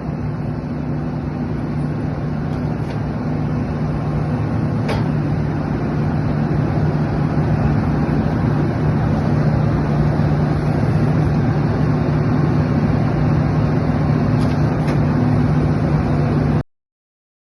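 Excavator's diesel engine running steadily under load, with a low hum and a couple of faint clicks; it cuts off abruptly near the end.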